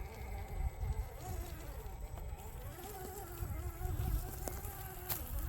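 Electric motor and drivetrain of an RC crawler whining, the pitch wavering up and down as the throttle is worked.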